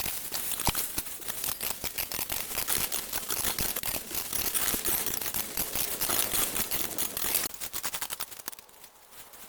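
Dry vines and brush being cleared by hand: dense, rapid crackling and snapping with rustling, thinning out near the end.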